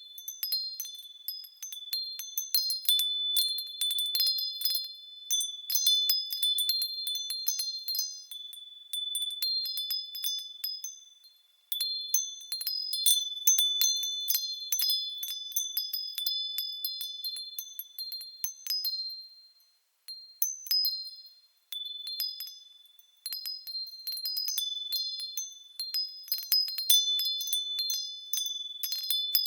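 Japanese fūrin wind chimes ringing in the breeze: irregular clusters of high, clear strikes that ring on and fade, dying away almost completely around twelve and twenty seconds in before the wind sets them going again.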